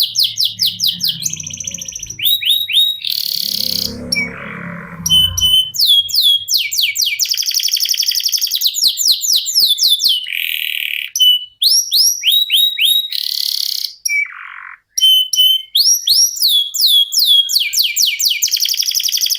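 Canary singing a long unbroken song of rolls: fast trills of rapidly repeated sweeping notes that switch to a new phrase every second or two. A low rumble runs under the song for the first few seconds.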